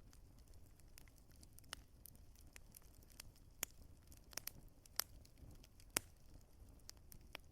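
Wood fire crackling in a fireplace: irregular sharp pops and snaps from the burning logs over a faint low rumble, with a few louder pops in the middle.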